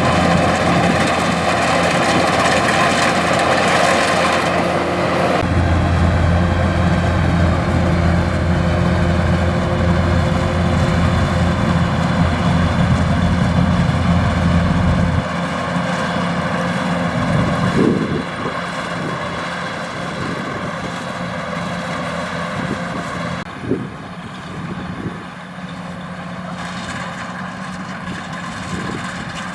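Kubota DC105X combine harvester's diesel engine and machinery running steadily. The drone shifts in tone and level a few times, and it grows somewhat quieter and duller in the last third.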